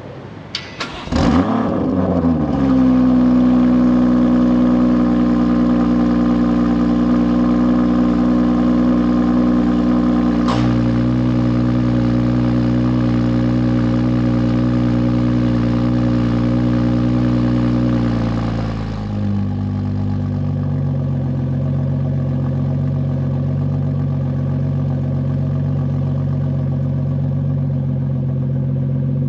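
BMW Gen 1 B58 3.0-litre turbocharged inline-six with a muffler delete, starting with a rev flare about a second in that falls away. It then holds a steady fast idle, with a click about ten seconds in, and drops to a lower, steady idle about 19 seconds in.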